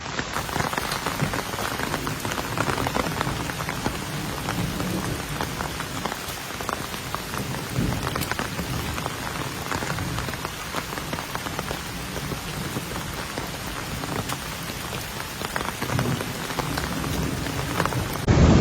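Rain falling steadily, with many separate drops ticking sharply over an even hiss.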